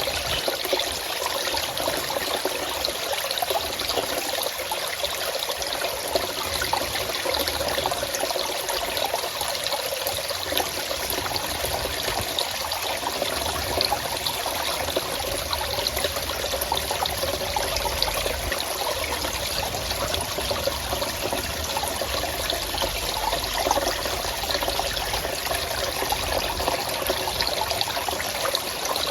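Water flowing steadily, an even wash of sound dotted with many small splashes.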